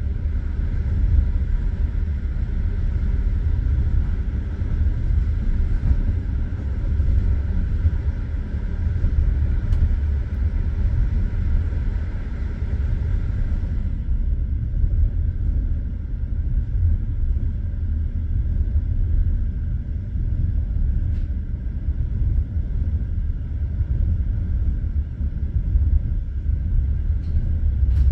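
Passenger train carriage running along the line, heard from inside: a steady low rumble of wheels on rails and the moving carriage. About halfway through, the higher hiss in the rumble drops away, and a few faint clicks are heard.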